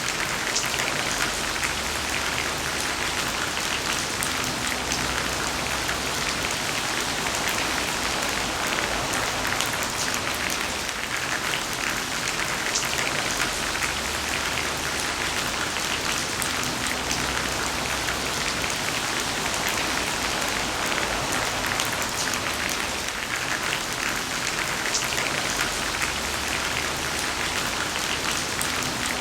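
Heavy rain falling steadily on a surface, a dense even patter full of individual drop ticks. Under it, a faint low rumble swells and fades a few times.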